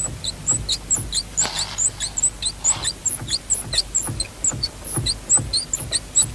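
A squeak in a Volkswagen repeating about three times a second, short and high-pitched like a chirp, with a soft thump in the same rhythm.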